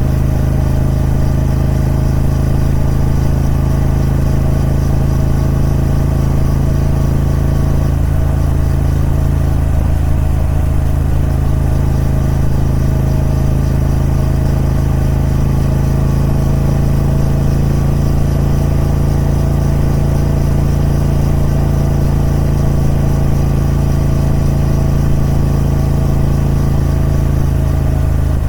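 Triumph Speed Twin 1200's 1200cc parallel-twin engine, through its stock exhaust, running loud and steady at one unchanging engine speed.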